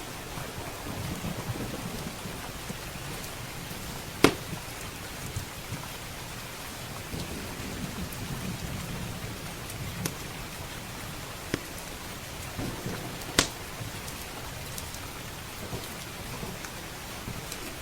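Steady heavy rain hissing, with low rolling thunder that swells near the start and again midway. Sharp pops from a crackling wood fire cut through it, two loud ones about four and thirteen seconds in and a few fainter ones.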